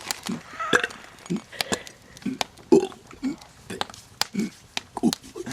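A young man burping a run of short burps, about seven in five seconds, burping his way through the alphabet letter by letter.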